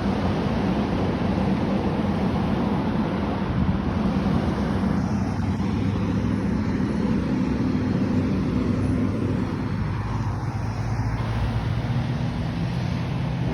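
Fire truck's diesel engine running steadily at idle, a low even hum under a wash of noise.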